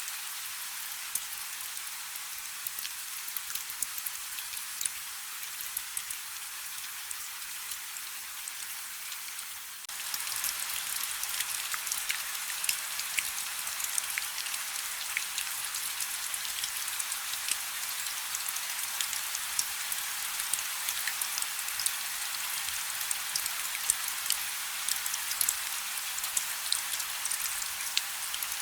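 Light rain: a steady hiss dotted with sharp taps of single drops. About ten seconds in it turns suddenly louder and stays so, with more drop taps.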